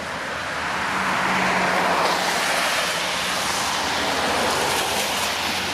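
A car driving past on a wet road: tyre hiss that swells about a second in, holds for a few seconds and fades.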